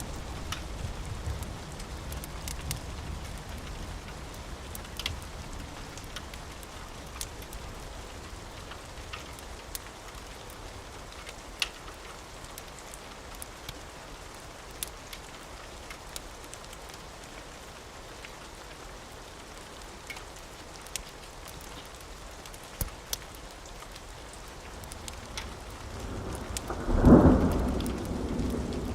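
Steady rain with scattered sharp crackles from a wood fire, and a thunderclap swelling up near the end.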